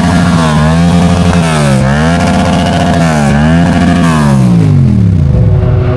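Vehicle engine being revved hard, its pitch rising and falling about four times in quick succession, then dropping back to a steady idle near the end.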